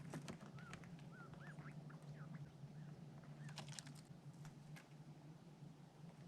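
Faint, short chirping calls of small birds, about eight in the first three seconds, mixed with scattered sharp clicks and taps.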